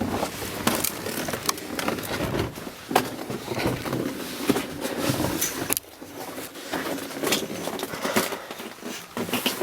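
Footsteps crunching on icy, snow-covered steps, with irregular sharp crunches and knocks several times a second and a short lull about six seconds in.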